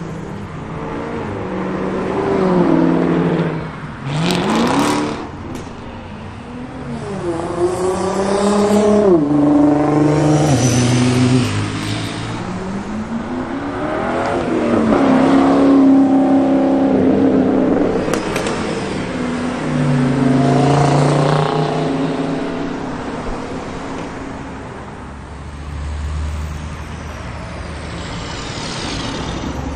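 Car engines revving and accelerating away one after another, the pitch climbing and dropping several times.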